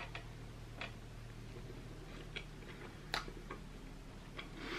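Faint chewing and mouth clicks from someone eating a soft blueberry-filled donut, a few scattered clicks over a low steady hum.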